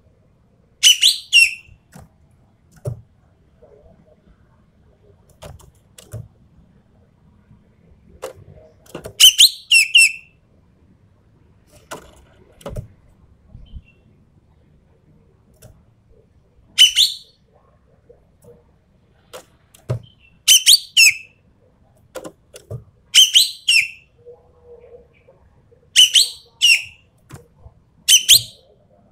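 Ekek keling bird calling in loud, shrill, squeaky clusters of two or three quick notes, repeated every few seconds, with faint knocks in between.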